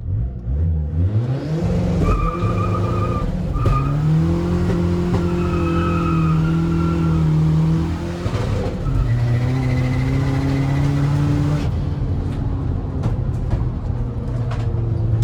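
Tuned 1.9 TDI PD130 diesel engine in a VW Caddy van accelerating hard. The revs climb, then break and drop at gear changes about four and nine seconds in.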